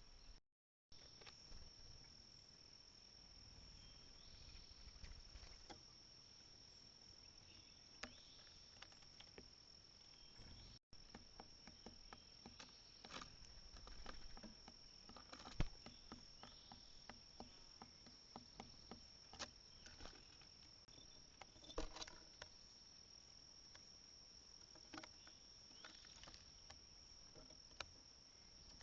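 Faint outdoor ambience at a bird feeder: a steady high insect drone, typical of crickets or katydids, with scattered light clicks and taps from the feeder platform, the loudest about midway and a little later.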